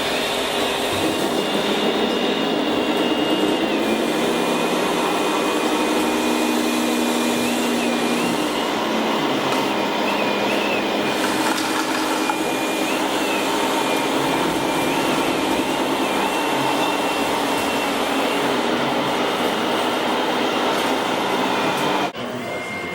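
Radio-controlled scale Liebherr 576 wheel loader at work: the steady whirring of its small electric motors and gears, with a high whine that steps up and down in pitch as the controls change. The sound drops away suddenly near the end.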